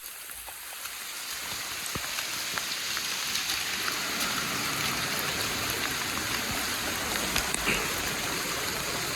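Steady rain falling, an even hiss of drops that grows louder over the first few seconds and then holds, with a few scattered light taps.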